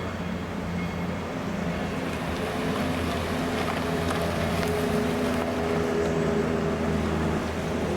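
A steady mechanical drone with several held low tones, slowly growing louder.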